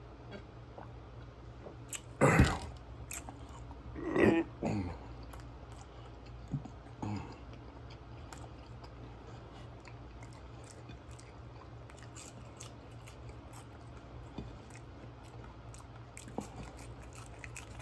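A man chewing sweet potato fries, with faint wet mouth clicks over a steady low hum. Two loud throaty sounds from him, about two and four seconds in, follow a drink from a bottle.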